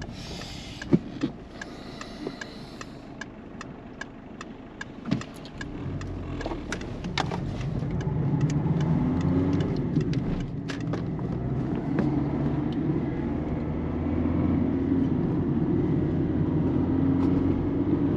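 Peugeot 207 1.4-litre turbo diesel running on the road, quieter at first with a few sharp clicks, then the engine and tyre rumble builds and holds steady as the car picks up speed.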